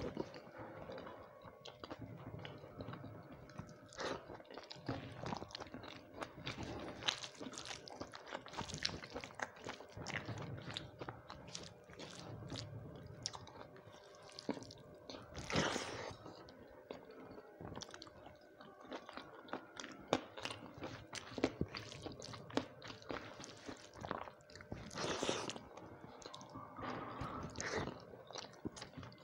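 Chewing with crunching and biting as a man eats rice, dalma and crisp fried vegetables with his hand. The small crunches run on continuously, and a few louder ones stand out about halfway through and near the end.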